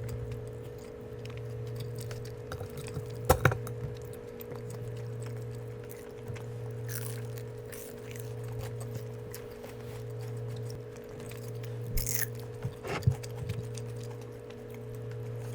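Close-miked eating sounds: soft chewing of food, with a few sharp clicks about three seconds in and again twice near the end, over a steady low hum.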